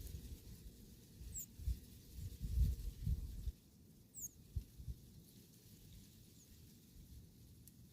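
Faint, irregular low rumbles and thumps, strongest in the first half, with three brief, very high chirps falling in pitch from a small bird, spaced a couple of seconds apart.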